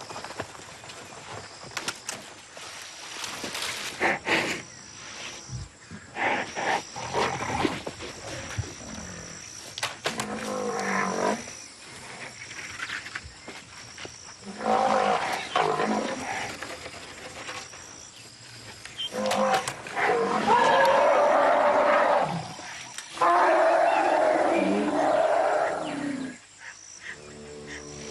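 An angry young elephant clashing with a rhino: a series of loud bellowing and trumpeting animal calls, the longest and loudest coming in the second half, among scuffling knocks.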